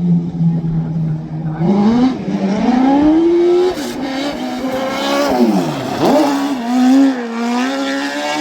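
Twin Suzuki Hayabusa inline-four engines in a mini truck revving hard under load. The pitch holds steady at first, climbs sharply about a second and a half in, rises and falls several times with one deep drop and recovery near the end, then settles at a steady higher pitch.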